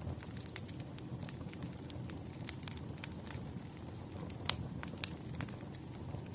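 Wood fire burning with a low steady rumble, scattered crackles and sharp pops, one louder pop about four and a half seconds in.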